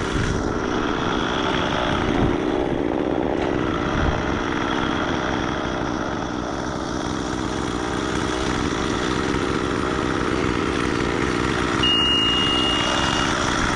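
An engine running steadily at an even speed, with a brief high steady tone near the end.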